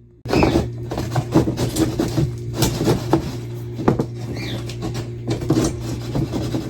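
Quick clicks, taps and rustles of hands working with wire and tools, over a steady low hum. The sounds start abruptly just after the beginning.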